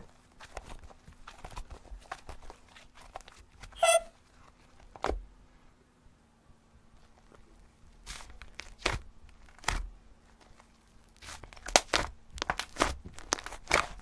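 Slime being squished and stretched by hand, giving irregular sticky clicks, pops and crackles, with a brief squeak about four seconds in.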